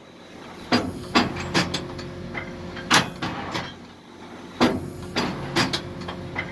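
Tractor-and-baler machinery running with a steady engine hum, broken by about nine sharp, unevenly spaced clacks and knocks.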